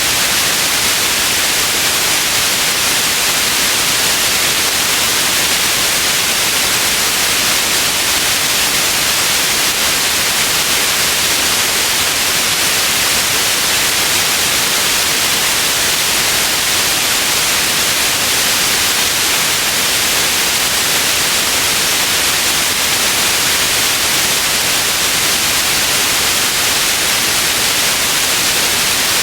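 Steady white noise: an even, unchanging hiss, strongest in the upper frequencies.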